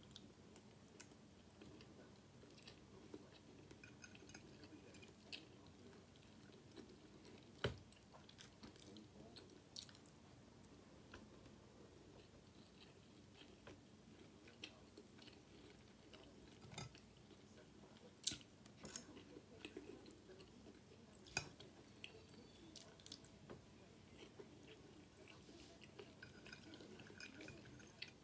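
Faint close-up chewing of a mouthful of seasoned rice, with a few sharp clicks scattered through.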